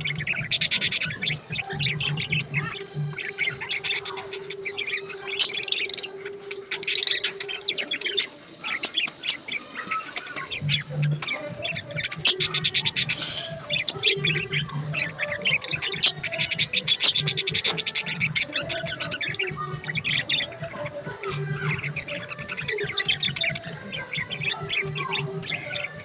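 Small birds chirping and chattering rapidly and continuously, many high calls overlapping.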